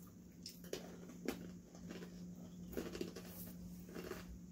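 Faint, irregular crunching and small clicks of children chewing Nagaraya cracker nuts (flour-coated fried peanuts), over a steady low hum.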